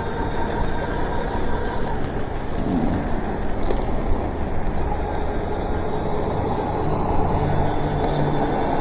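Electric bike riding on wet pavement: steady tyre and wind noise, with a hub-motor whine that cuts out about two seconds in.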